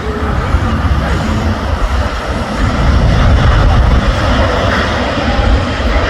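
Airbus A350-900's Rolls-Royce Trent XWB jet engines at takeoff power, a loud, steady rumble that grows a little louder about two and a half seconds in.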